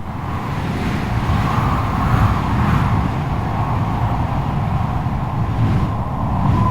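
Strong wind blowing: a deep rumble with a howling whistle that swells and fades, loudest about two seconds in.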